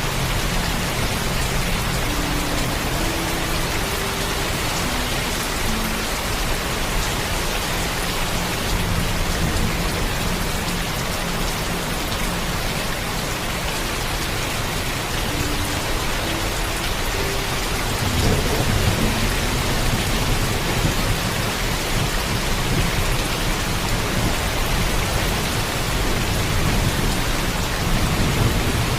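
Heavy rain falling steadily, with low rolls of thunder at the start, again about two-thirds of the way through, and near the end.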